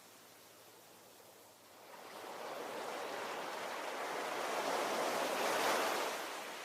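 Ocean waves: after a lull, one wave swells over a few seconds into a hissing break and washes out near the end.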